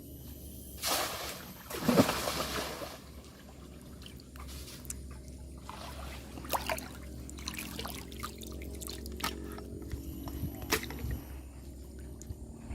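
River water splashing and trickling. Two louder splashes come about one and two seconds in, the second the loudest, followed by smaller splashes and drips.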